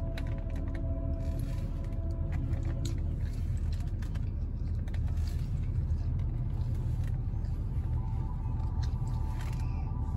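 Car engine idling, heard from inside the cabin as a steady low rumble. Faint sustained tones come in during the first few seconds and again near the end, with a few light clicks.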